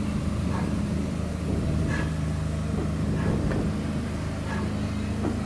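Heritage train moving slowly, heard from a carriage window: a steady low hum with a few light clicks as the wheels run over rail joints and pointwork.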